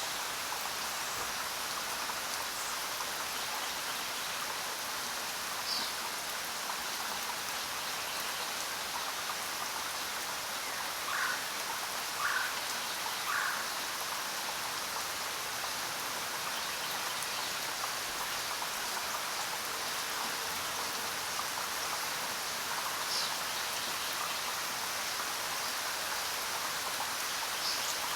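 Steady rain falling on jungle foliage, an even hiss, with a few brief animal calls over it: a high chirp now and then, and three short lower calls about a second apart near the middle.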